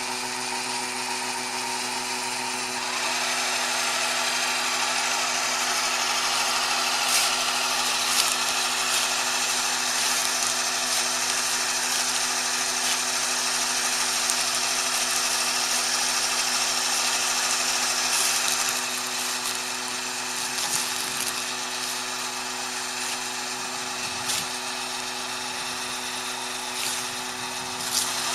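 Small tractor's motor running at a steady speed: a constant hum under a rattling hiss. It gets louder about three seconds in and eases back after about eighteen seconds.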